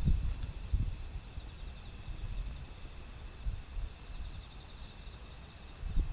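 Gusty typhoon wind buffeting the microphone as an uneven low rumble, strongest at the start and near the end. Under it runs a faint steady insect trill.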